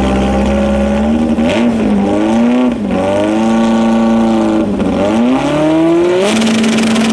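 A drag-race VW Karmann Ghia's engine held at high revs at the starting line; the revs dip and climb back three times, then settle back to a steady high-rev hold near the end.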